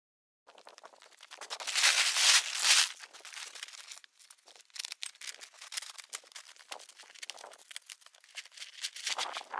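Tarp sheeting rustling and crinkling as it is handled, with a loud stretch about two seconds in and then many short crackles.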